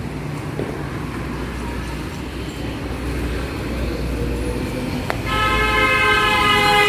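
Low road-traffic rumble, then a vehicle horn sounds one steady, multi-toned blast for nearly two seconds about five seconds in.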